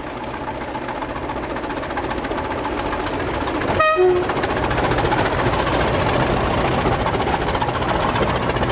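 Diesel locomotive running and growing steadily louder as it approaches. About four seconds in, it gives a brief toot on its horn.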